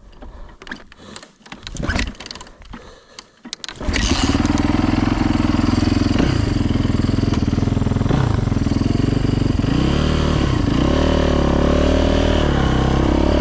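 Yamaha YZ450F dirt bike's freshly rebuilt single-cylinder four-stroke engine starting about four seconds in after some clattering knocks, then running loud, its revs rising and falling a few times as it is ridden.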